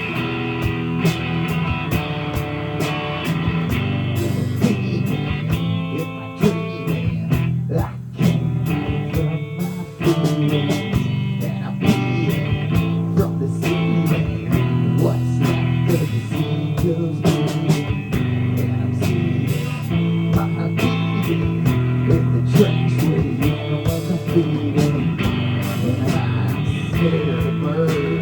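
Live rock band playing an instrumental stretch of a song, guitar leading over sustained bass notes.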